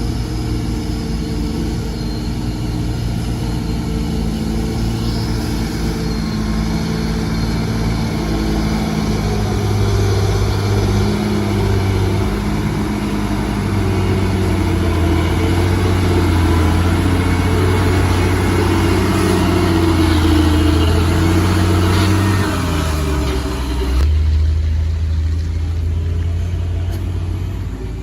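Diesel engine of a loaded Hino FM 260 JD coal truck running hard at steady revs, its pitch falling about 22 seconds in.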